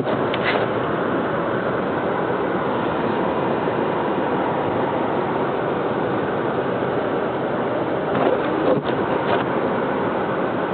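Steady road and engine noise of a car driving on a snow-covered road, with a few brief knocks about eight to nine seconds in.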